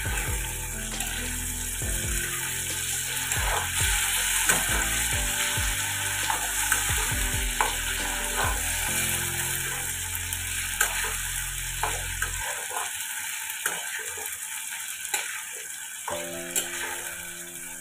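Diced potatoes, sliced onions and ginger-garlic-chilli paste sizzling in hot mustard oil in a kadai, stirred with a spatula that scrapes and knocks against the pan again and again.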